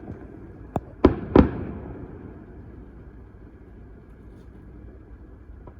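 Fireworks going off: a sharp crack just under a second in, then two loud bangs in quick succession that ring out and fade over the next second.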